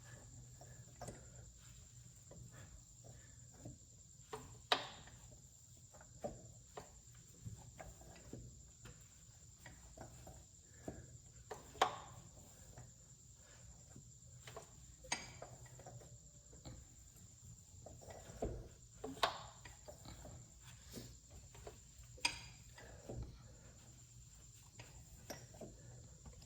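A 2.0-litre engine running with a low steady hum, and a sharp click every few seconds at uneven intervals: the clicking noise that is being shown.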